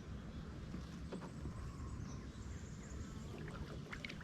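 Quiet water sounds around a kayak drifting in lily pads, a low steady wash, with faint high bird chirps now and then.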